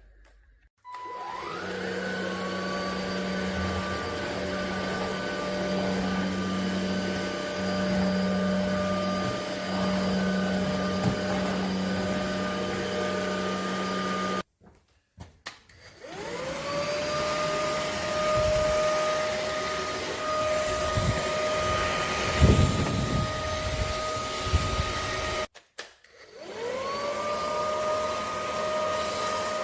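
Cordless stick vacuum cleaner's motor whining up to speed and running steadily. The sound breaks off abruptly twice and spins up again each time, and there are scattered knocks and rattles during the middle run.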